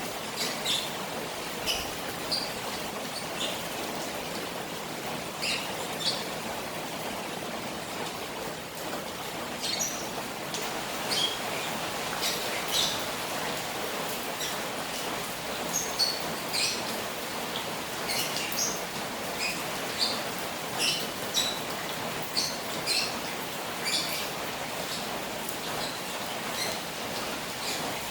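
Steady rain on a koi pond, with short high-pitched bird chirps coming every second or so throughout.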